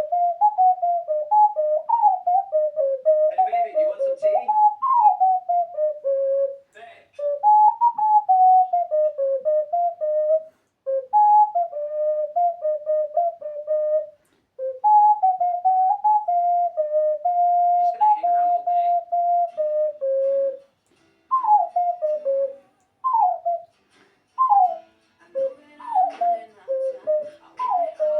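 Ocarina playing a melody by ear in clear, pure whistle-like notes, broken by several short pauses. Near the end it plays a run of short notes that each slide downward.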